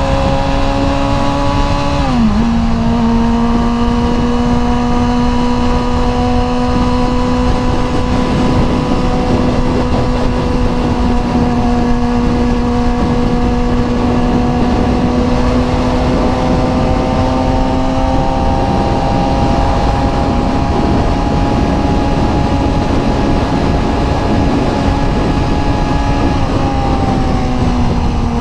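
Suzuki GSX-R sportbike engine running at a steady cruise under a constant rush of wind noise; its pitch drops suddenly about two seconds in and settles lower, then slides down again near the end.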